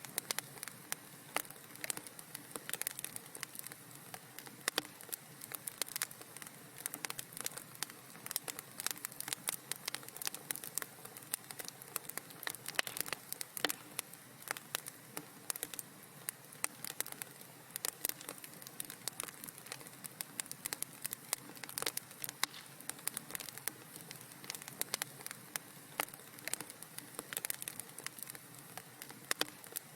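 Wood fire crackling in a fireplace: dense, irregular sharp pops and snaps over a low steady hiss.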